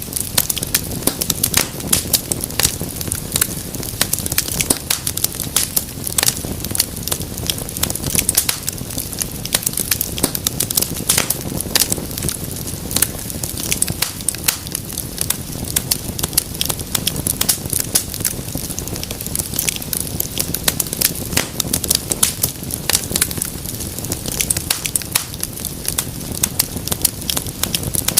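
Wood fire burning in a fireplace, crackling and popping continuously with many small sharp snaps over a low steady rumble of flames.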